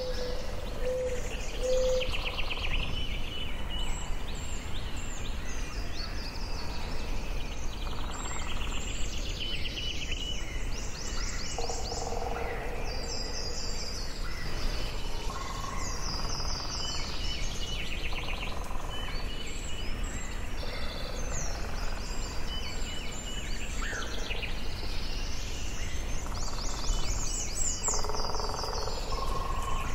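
Several birds singing and calling in a forest, short trilled phrases overlapping one another, over a steady low background rumble.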